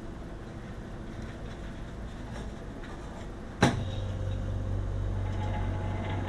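A sharp click about three and a half seconds in, then a steady low hum with a faint higher tone starts and runs on: the cabinet's Danfoss SC15CM refrigeration compressor switching on.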